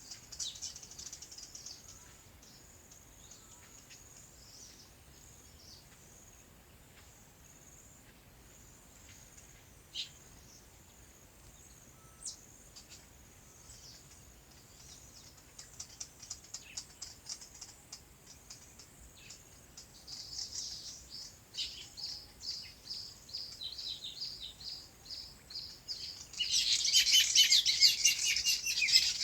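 Small birds chirping, with scattered calls at first and quick repeated chirps building toward the end, where a dense, loud burst of chirping sets in.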